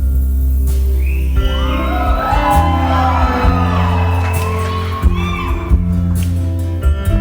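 Live band playing a sustained chord with heavy bass, while the crowd cheers and whoops over it for several seconds.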